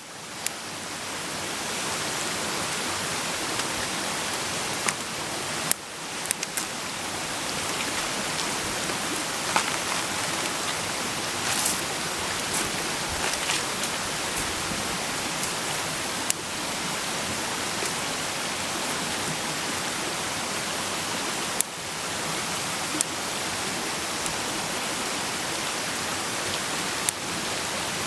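Food frying in a pan over a campfire: a steady sizzling hiss with occasional sharp pops.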